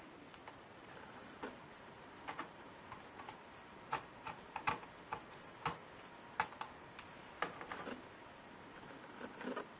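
Irregular small clicks and taps of hands working on a Lenovo Y570 laptop's plastic and metal parts, a dozen or so sharp clicks at uneven spacing.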